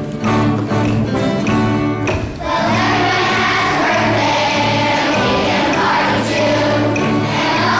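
Acoustic guitar strumming a song's introduction, then a choir of children's voices comes in singing about two and a half seconds in, with the guitar accompanying.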